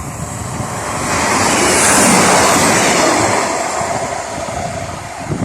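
A vehicle passing close by: a broad rushing noise swells to a peak about two seconds in and fades away, over low wind rumble on the microphone.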